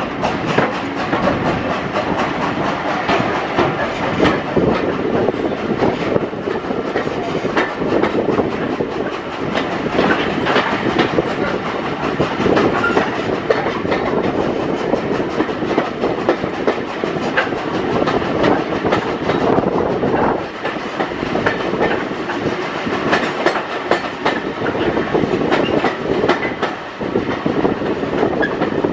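A British Railways Mk1 passenger coach on the move, heard from on board: a steady rolling rumble with frequent clicks and knocks of the wheels over the rail joints.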